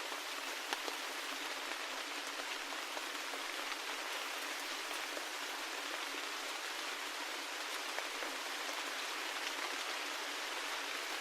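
Steady rain: an even hiss with scattered individual drops ticking through it, lacking any low rumble.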